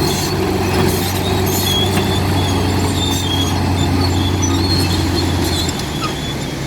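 Komatsu D65P crawler bulldozer's diesel engine running steadily, with short high metallic squeals from the tracks; the engine drone drops away near the end.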